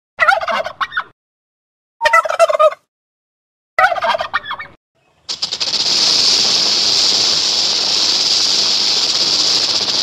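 A tom turkey gobbling three times in short bursts about two seconds apart. About five seconds in, a snake's steady hiss takes over and turns into a fast rattling buzz near the end.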